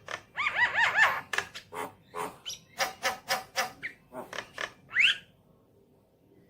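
Javan myna (jalak kebo) calling: a string of harsh, rasping chatter notes, with a quick run of arched whistled notes about half a second in and a single rising note about five seconds in, after which it falls quiet.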